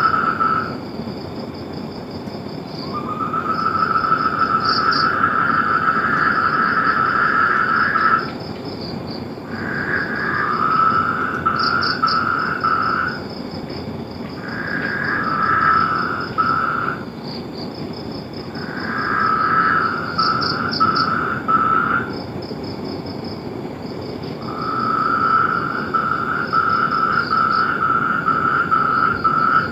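Frogs calling: long trills of a few seconds each, one after another with short pauses, over a continuous high, rapidly pulsing chirr.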